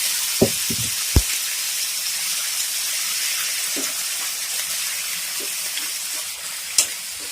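Cooked minced mutton sizzling steadily in a pan with a little oil while its leftover cooking water boils off, with a few sharp clicks from a spoon against the pan, mostly around the first second and once near the end.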